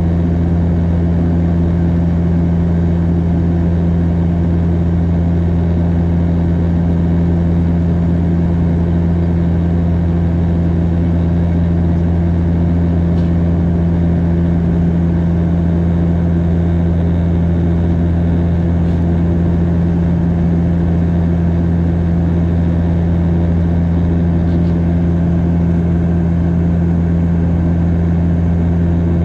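Cabin noise of a Bombardier DHC-8 Q400 turboprop in flight: the steady, unchanging drone of its propellers and engines over airflow hiss.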